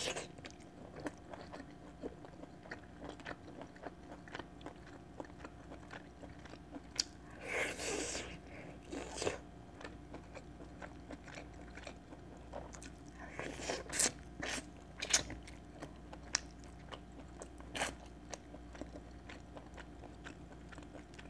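Close-miked eating sounds of chicken being chewed and bitten off the bone by hand: scattered sharp mouth clicks and smacks, with a few short clusters of louder chewing.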